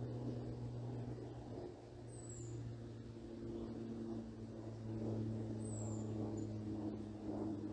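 Low, steady engine drone of an aircraft passing overhead, its pitch shifting slightly. A bird gives a short, high, falling call twice.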